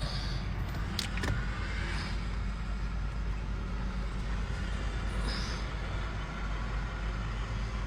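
Steady low rumble of idling car engines, with two short clicks about a second in.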